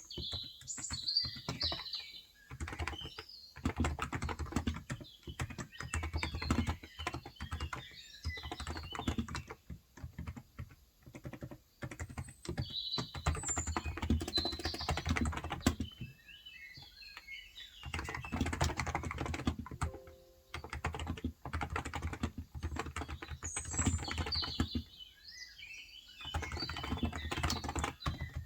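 Typing on a Cox Endeavour capacitive (Topre-style) tenkeyless keyboard with 35 g keys: runs of quick keystrokes that pause briefly about a third of the way in and again near the end. Birds chirp in the background now and then.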